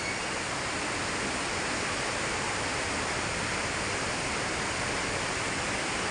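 A steady, even rushing noise without any change or distinct events, like water or air rushing.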